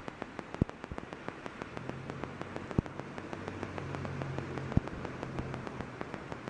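Torrential rain drumming on a gazebo roof, a dense patter of many drops with a few heavier knocks. A low engine hum from a passing car rises and fades in the middle.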